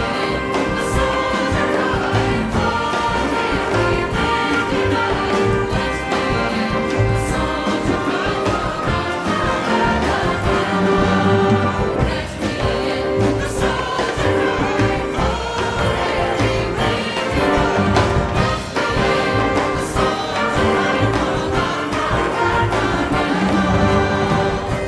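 Celtic folk ensemble and choir performing together: massed voices singing over instrumental accompaniment, with a steady held tone and a low beat underneath.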